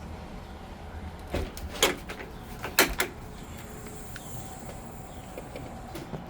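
A few sharp knocks and clicks, loudest about two seconds in and again near three seconds, over a steady low hum.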